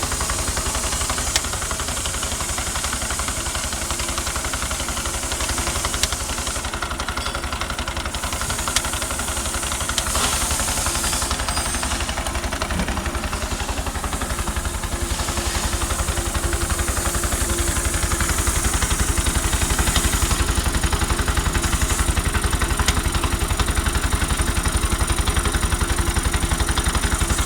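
205cc Bajaj-type single-cylinder rickshaw engine running on a test stand with a steady pulsing idle. It grows a little louder about two-thirds of the way through.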